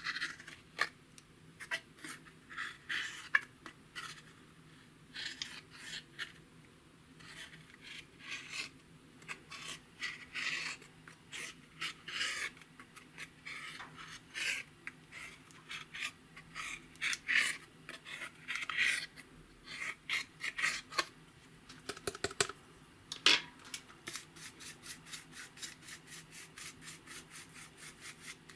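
Hands kneading and stretching clear slime mixed with makeup and glitter, giving sticky clicks and squishes in quick, irregular bursts. In the last few seconds it turns to a faster, even run of small clicks.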